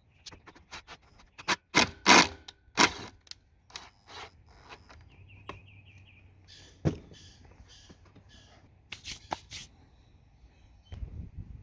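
Hand work on metal parts: a run of irregular knocks, clinks and scrapes, the loudest a few sharp knocks about two to three seconds in, with a brief quick ticking near the middle.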